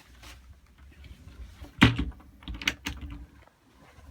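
A few sharp clicks and light knocks of kitchen fittings being handled in a motorhome, the loudest about two seconds in, followed by a quick cluster of smaller clicks.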